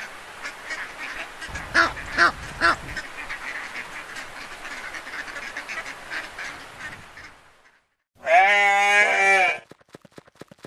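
Duck quacking three times about two seconds in, over a steady background hiss that fades out. After a brief silence comes one loud, drawn-out animal call lasting over a second, then light, even hoof clip-clops at about four a second.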